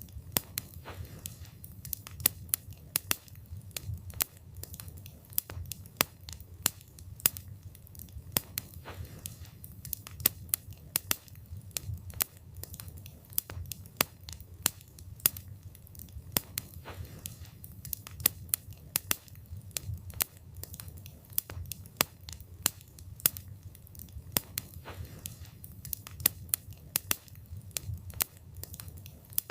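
Wood campfire burning: frequent, irregular sharp crackles and pops from the burning wood over a low, steady rumble of the flames.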